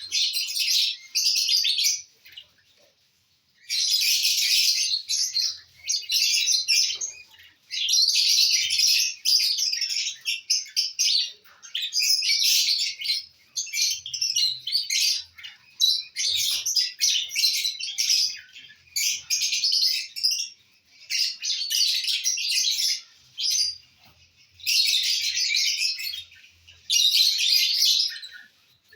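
Lovebirds chattering: rapid, high chirps in long continuous bouts, broken by a few brief pauses.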